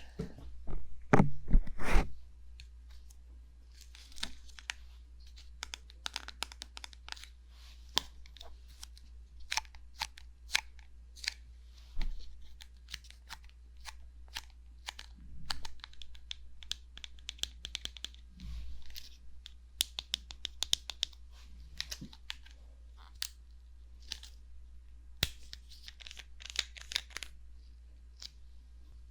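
Bare fingertips tapping, scratching and rubbing on the silicone ears of a 3Dio binaural microphone: a continuous run of quick crackly taps and rustles, with a few louder thumps in the first couple of seconds.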